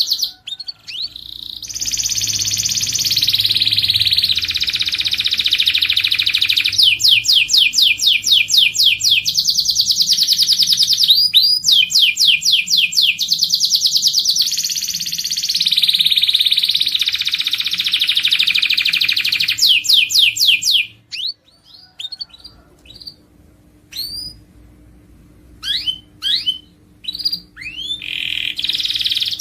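Domestic canary singing: fast repeated trills alternating with long rolling phrases. About two-thirds of the way through the song breaks off into a few scattered short chirps, then starts again near the end.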